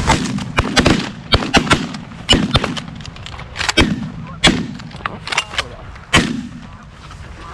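Several hunters' shotguns firing at geese in a rapid, uneven volley of many shots, the last about six seconds in.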